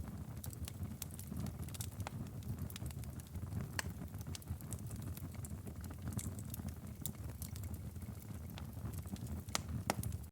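Wood fire in a fireplace crackling: irregular sharp pops and snaps over a low steady rumble, with one louder snap near the end.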